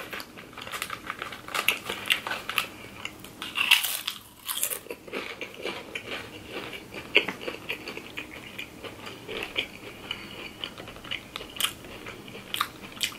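A person chewing breaded nuggets close to the microphone, with irregular soft crunches throughout.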